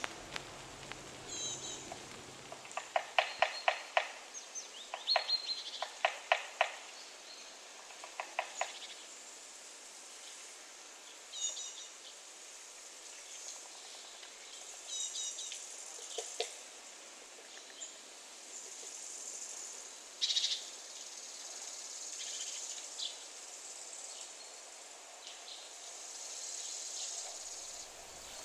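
Woodland ambience of small birds chirping and calling, with a woodpecker knocking on wood in several short quick runs of taps during the first third; these knocks are the loudest sounds.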